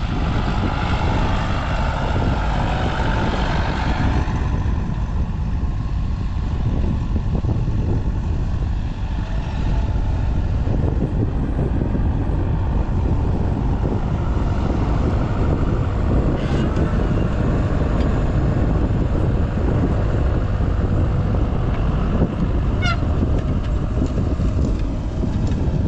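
Strong gusty wind, about 20–25 mph, buffeting the microphone with a steady low rumble, with two brief high chirps, one past the middle and one near the end.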